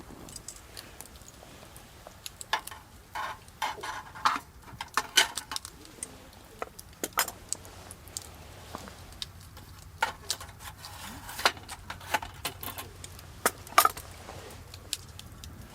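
Metal utensils and cookware clinking and knocking at irregular moments, some strikes ringing briefly.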